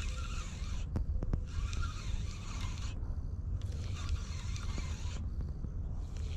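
Spinning reel being cranked in short bursts of about a second and a half, taking up line as a rattle trap is yo-yoed, with a few sharp clicks and a steady low rumble of wind on the microphone underneath.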